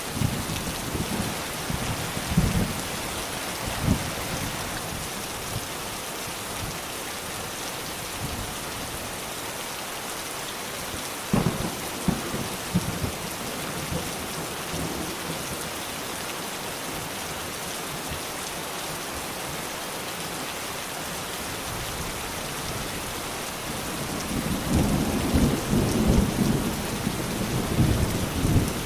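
Steady, heavy rain hissing on surfaces, with low thunder rumbling near the start and swelling again over the last few seconds. A few short low knocks come about a third of the way in.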